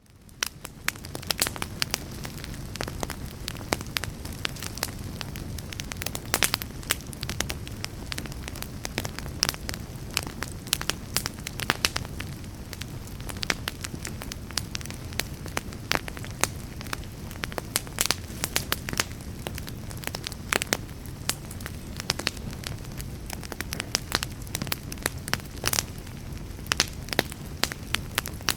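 Wood fire crackling, with frequent sharp pops and snaps over a steady low rumble. It fades in over the first second.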